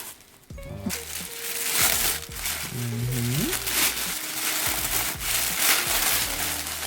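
Paper crinkling and crumpling in continuous rustling handling, with a short pitched sound about three seconds in.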